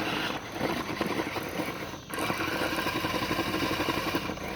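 R/C monster truck's motor whirring under throttle as its single driven wheel spins and digs into gravel in a burnout, with a short let-off about two seconds in before it picks up again.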